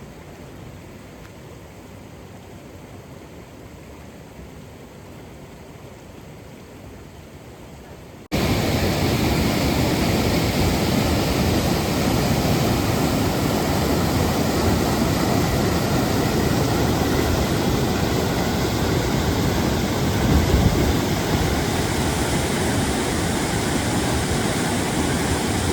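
Steady rushing water of a mountain waterfall; about eight seconds in it cuts abruptly from a quieter, more distant rush to a much louder, close rush of falling water.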